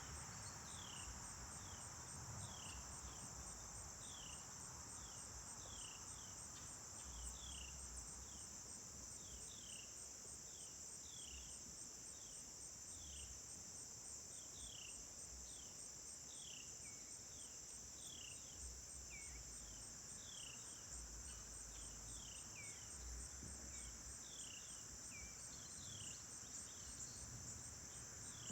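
Faint, steady high-pitched insect chorus of crickets, with a bird's short falling chirp repeated a little more than once a second over it.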